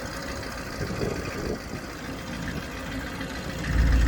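1979 Chevrolet C70 truck's 427 V8 engine idling steadily while its hydraulic hoist raises the dump box. A loud low rumble swells briefly near the end.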